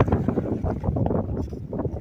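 Strong gusty wind blowing across the microphone: a heavy, uneven rush of noise that surges and dips.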